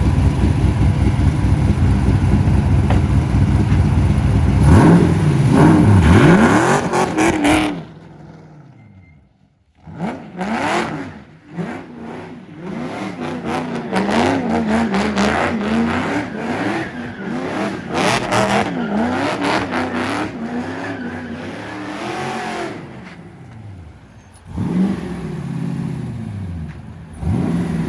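Corvette Z06 race car's LSX-R V8 engine running loud, then revved over and over with its pitch swinging up and down, as during donuts. The sound drops away sharply for about two seconds near eight seconds in before the revving resumes, louder again near the end.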